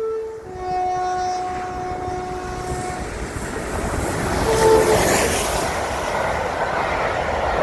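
A train sounds its warning signal: a short blast, then one long steady note of about two and a half seconds, and another short blast about four and a half seconds in. From about four seconds the noise of the train passing at speed swells up and stays loud.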